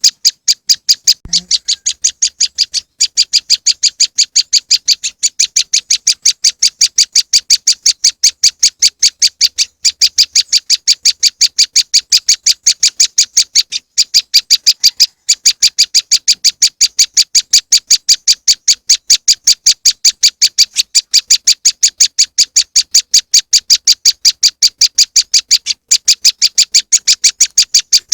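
Prenjak lumut bird-lure call: a loud, fast, even train of sharp, high chipping notes, several a second, broken only by a few brief pauses.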